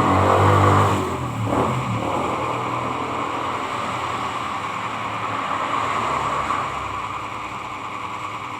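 Small electric motor running steadily with a whirring hum. It is loudest in the first second or so, then eases off a little.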